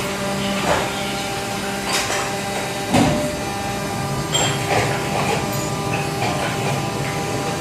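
Injection molding machine running: a steady mechanical hum, with several short knocks and clacks from its moving parts, the loudest about three seconds in.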